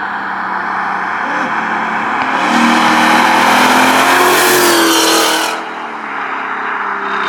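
2018 Mustang GT's V8 exhaust, running through long-tube headers, an X-pipe and stock mufflers. About two and a half seconds in it comes on throttle: the note climbs and gets loud for about three seconds, then falls back to a lower, steadier note.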